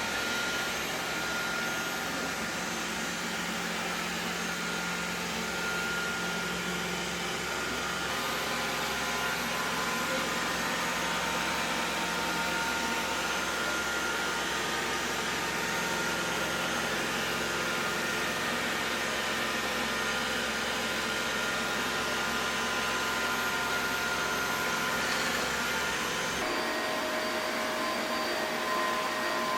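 Xiaomi Mi Robot Vacuum-Mop 2 Ultra robot vacuum running steadily while cleaning: an even suction rush with a thin motor whine. Near the end the low hum drops away and the whine shifts pitch.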